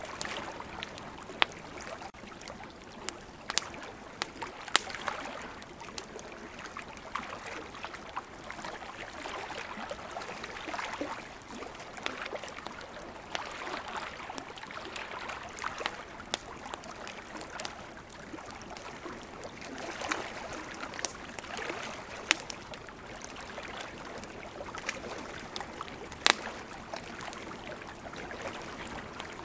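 Campfire crackling, with frequent sharp pops and snaps, a few much louder than the rest. Under it runs a steady wash that swells and fades every few seconds, like sea waves.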